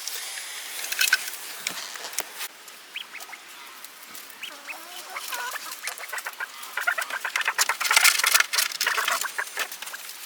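Quail in their coop giving short chirping calls, mixed with scattered clicks and rustling that grow busiest and loudest a few seconds before the end.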